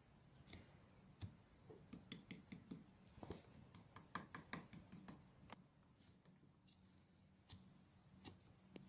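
Near silence with scattered faint clicks and ticks, most of them in the first half.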